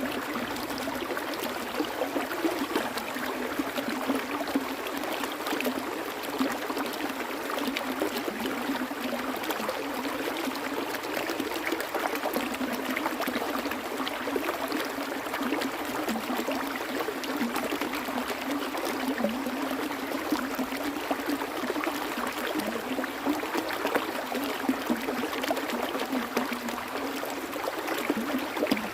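Water flowing steadily in a stream, with a constant splashing and trickling.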